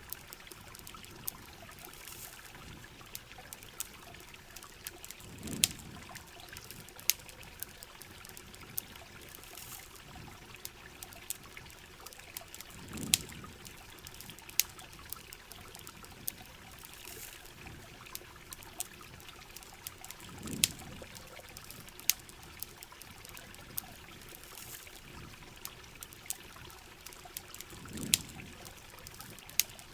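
Heavy rain pouring and trickling as a steady wash, with the sharp pops and crackles of a campfire scattered all through. A soft low swell comes about every seven and a half seconds.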